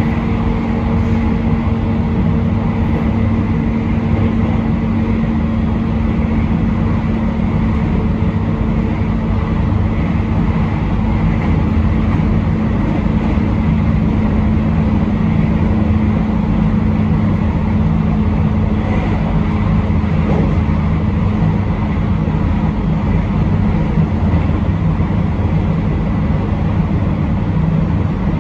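A train running steadily along the line, heard from inside: an even rumble with a steady low hum and no pauses or clanks.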